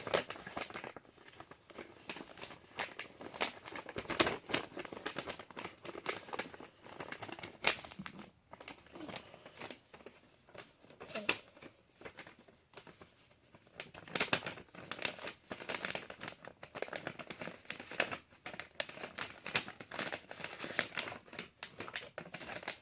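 A sheet of paper being handled and folded, with irregular crinkles and sharp crackles as it is creased and smoothed.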